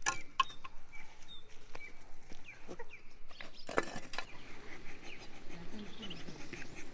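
Chickens clucking, with short high chirps and a few sharp knocks.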